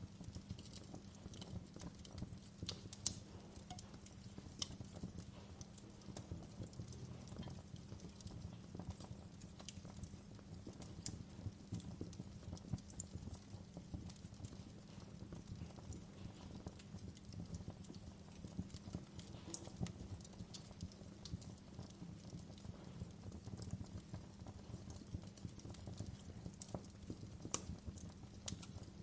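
Fireplace crackling: a steady low rumble with irregular pops and snaps, a few of them sharper than the rest.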